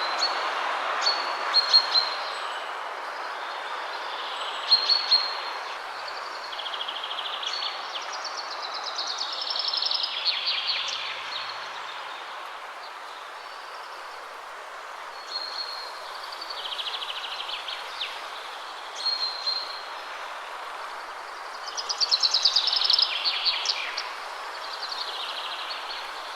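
Wind rushing steadily through trees, strongest at first and easing off, with songbirds singing over it: repeated short high chirps and, twice, a longer trilled phrase that falls in pitch.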